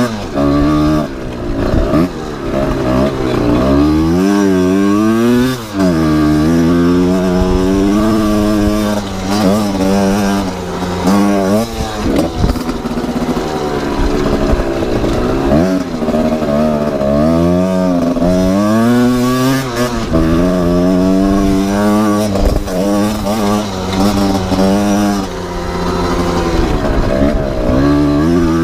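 Kawasaki KR two-stroke engine in a CRF250R dirt bike running and revving, its pitch climbing and dropping repeatedly every couple of seconds.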